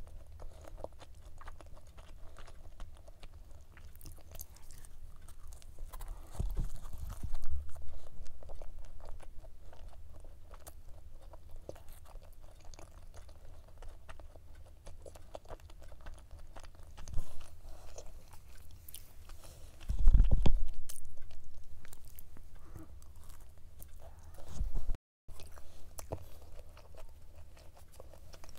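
Close-up chewing of a flaky laminated pastry, the pistachio cube pie, with fine crisp crunching throughout and two louder spells about seven and twenty seconds in. The sound cuts out briefly twice near the end.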